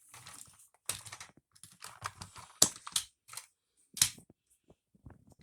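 Hands handling toy trains and a small present: a string of irregular sharp clicks and taps with brief rustling.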